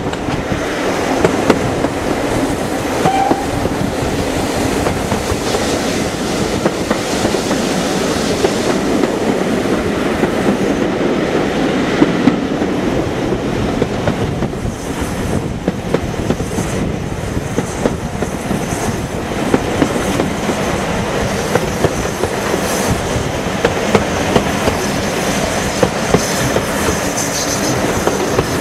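Steam-hauled heritage passenger train running, heard from an open carriage window: a steady rolling roar of the coach wheels on the track with the clickety-clack of wheels passing over rail joints, and wind on the microphone.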